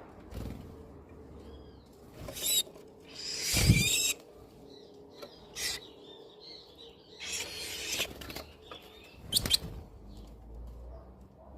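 A bird calling in short, harsh bursts, a handful of times, over a faint steady background. The loudest call comes about three and a half seconds in.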